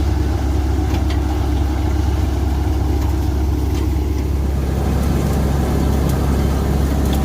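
Swaraj 735 tractor's three-cylinder diesel engine running steadily at a constant speed, powering a thresher, with a deep, even hum.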